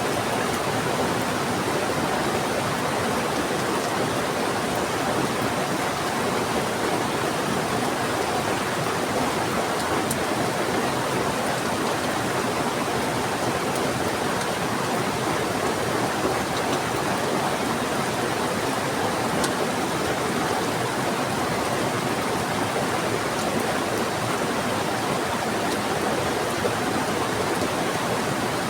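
Heavy rain falling together with a fast-flowing river: a steady, even rush of water with no change.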